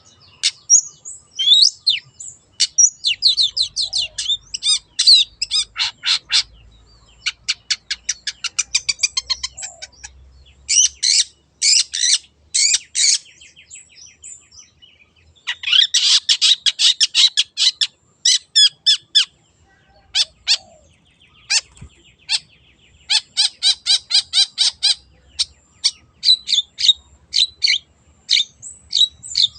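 Long-tailed shrike (cendet) singing: rapid runs of sharp, high chattering notes lasting a second or two each, separated by short pauses.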